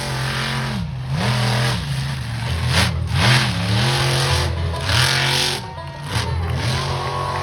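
Monster truck engine revving hard and unevenly, its pitch dropping and climbing again several times in quick succession as the throttle is blipped and held.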